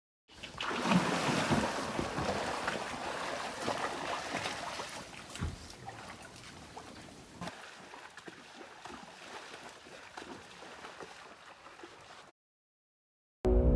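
Small creek running over rocks, a steady rushing trickle, louder in the first few seconds and much softer after about seven seconds, then cut off suddenly.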